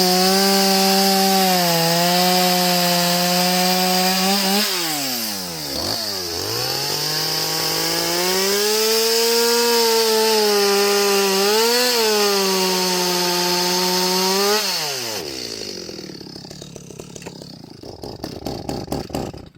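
Stihl two-stroke chainsaw running at high revs, cutting wood. Its pitch dips sharply and recovers about five seconds in, then falls away about fifteen seconds in as the throttle is let off, leaving a fainter rough running sound with a few ticks near the end.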